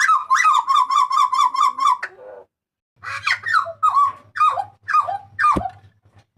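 Hooded butcherbird (jagal papua) calling loudly: a fast run of about six short, repeated notes a second that ends about two seconds in, then after a brief pause a string of slurred whistles, each sweeping downward, about two a second.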